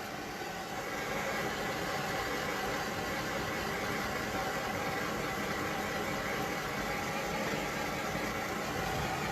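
Steady machine noise, an even hiss with a faint hum-like tone, that gets a little louder about a second in and then holds.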